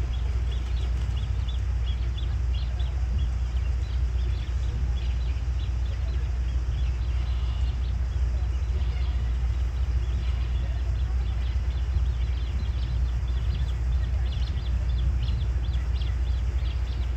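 Many short, high-pitched bird chirps, repeated throughout over a steady low rumble.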